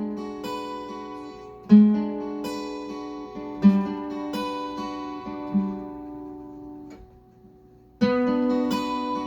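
Acoustic guitar playing an instrumental intro: chords struck about every two seconds and left to ring out, dying away to a short pause about seven seconds in, then strumming picks up again near the end.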